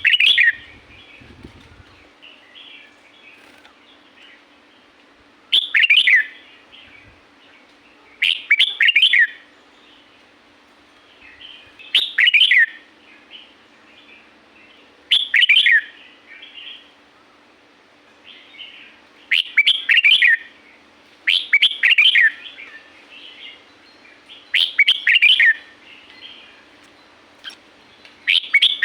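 Red-whiskered bulbul singing: short, loud, warbling phrases repeated every few seconds, with softer chatter between them.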